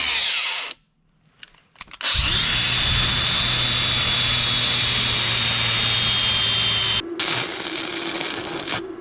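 A handheld power tool with a high whine, used to clean rust off riding-mower blades. It runs in a short burst, stops for about a second, then runs steadily for about five seconds. It cuts off sharply and a quieter steady hum follows.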